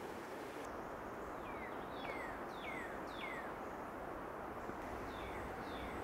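A bird calling, a run of four short whistled notes that each slide downward, then a few fainter ones near the end, over a steady outdoor hiss.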